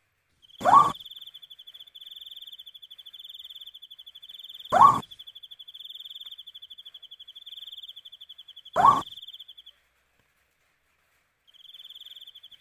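An owl calling three times, about four seconds apart, each call short and rising in pitch. Under it, crickets trill steadily in a high, pulsing chirr that stops briefly near the end.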